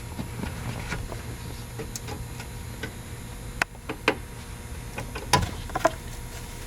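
Scattered sharp plastic clicks and knocks as push-in trim clips are pulled from a car's lower dash valance panel and the panel is handled, over a steady low hum.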